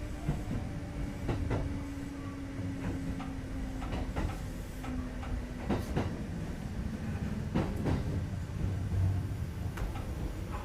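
Kintetsu 2430-series electric train heard from inside the car while running: a steady rumble of wheels on rail, broken by clacks over the rail joints. A low whine from the drive slowly falls in pitch.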